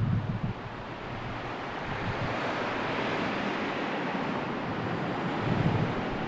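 Sea waves washing in, a steady hiss that swells in the middle. Wind buffets the microphone at the start and again near the end.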